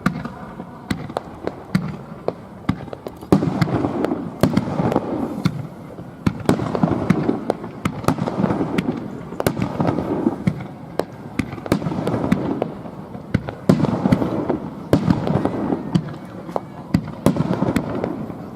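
Fireworks display: aerial shells bursting in a rapid barrage, with many sharp cracks over a rolling rumble of bangs that swells and fades several times.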